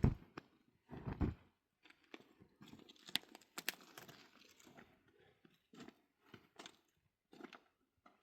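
A run of short, irregular crunching and rustling sounds, with a louder thump at the start.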